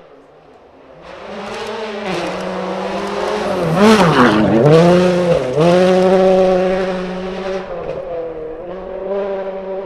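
Rally car approaching and passing at speed on a forest stage, its engine loudest mid-pass. The engine pitch drops sharply twice as the driver lifts or shifts, then holds steady as the car pulls away.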